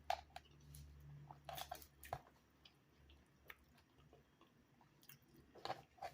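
Quiet close-up chewing with scattered soft mouth clicks and smacks. A faint low hum stops about two seconds in.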